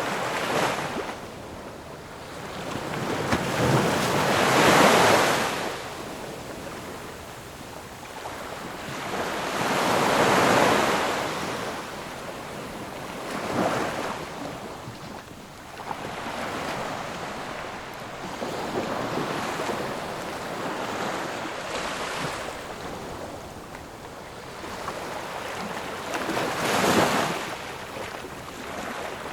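Ocean waves breaking and washing up the shore, each one a swelling rush of surf that fades again, with the loudest coming about five seconds in and near ten seconds.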